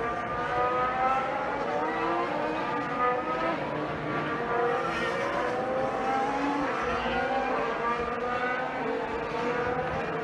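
Formula 1 cars' turbocharged V6 hybrid engines accelerating and shifting up through the gears, distant, with several rising engine notes overlapping and each dropping back at the upshifts.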